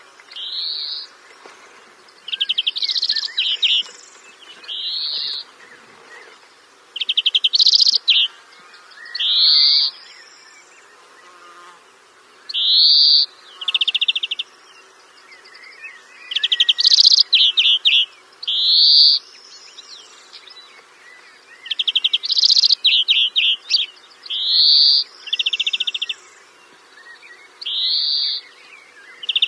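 A songbird singing short, high phrases one after another every second or two, alternating fast buzzy trills with rising whistled notes.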